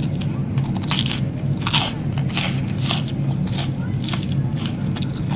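Close-up chewing of a crispy-battered Korean cheese dog: crisp crust crunching about twice a second as she bites and chews, over a steady low hum.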